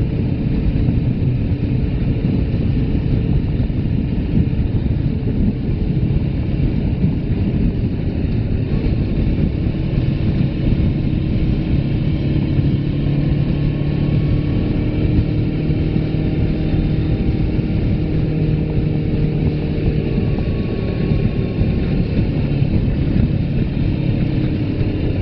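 Suzuki GS500F parallel-twin engine running at a steady pace while riding, mixed with heavy wind rumble on the phone's microphone.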